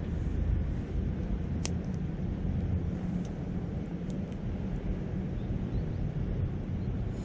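Wood campfire crackling, with a few sharp pops, the loudest about a second and a half in, over a steady low rumble of wind and a flowing river.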